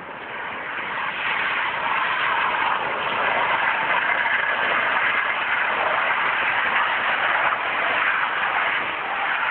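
Car driving on a wet road in rain: a steady rushing hiss of rain and wet tyres, growing louder over the first second or two.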